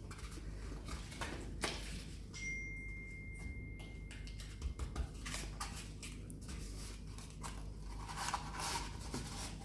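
Cardboard tubes being pushed and wedged into another cardboard roll, with scattered scrapes, rustles and small knocks. A thin, steady high whistle sounds for about two seconds starting about two seconds in.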